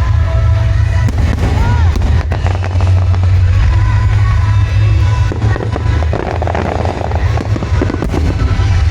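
Aerial fireworks bursting and crackling in quick succession over music played through loudspeakers for the show, with a heavy steady low rumble underneath. The bursts grow denser about halfway through.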